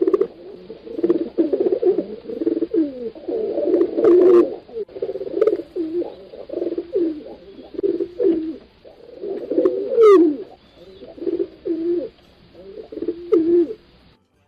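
Several domestic pigeons cooing, their low, throaty coos overlapping almost without a break. A brief high, falling sound cuts in about ten seconds in.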